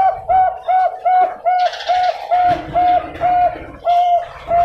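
Zebra dove (Bangkok-line perkutut) singing: a rapid series of short, even cooing notes, about two to three a second, slowing slightly near the end.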